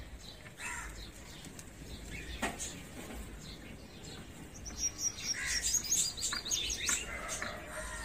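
Small bird chirping: a few short high chirps early on, then a run of quick high chirps in the second half, with a single knock about two and a half seconds in.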